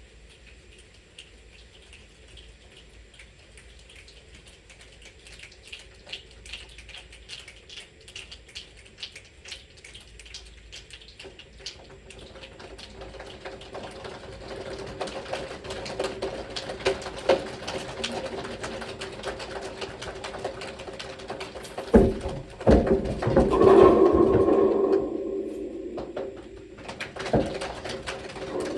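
A class of children making a body-percussion rainstorm. It grows from a faint rustle into many scattered sharp clicks, thickens into a dense patter like rain, and swells to loud thumps about three quarters of the way through before it starts to ease off.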